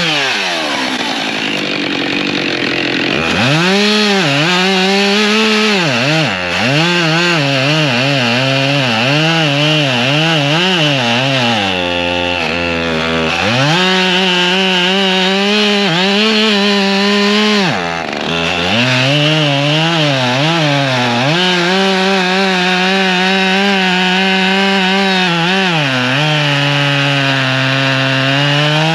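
Two-stroke gas chainsaw cutting firewood at high revs, its engine pitch repeatedly sagging and recovering as the chain bites into the wood. The pitch drops lower for a moment about twelve seconds in and again at about eighteen seconds, between cuts.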